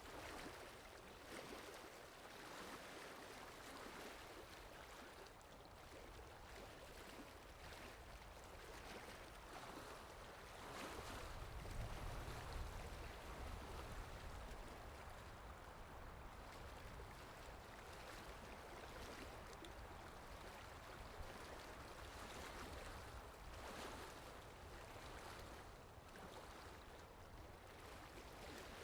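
Faint water ambience: a steady wash of flowing water with gentle swells every couple of seconds, and a low rumble that rises about eleven seconds in and eases off a few seconds later.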